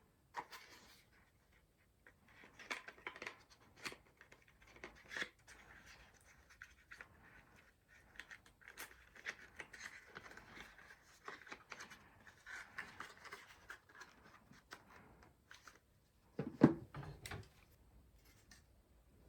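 Hands fitting the parts of an Arctic Freezer 36 CPU air cooler: scattered small clicks and rustles of plastic and metal, with one heavier knock about three-quarters of the way through.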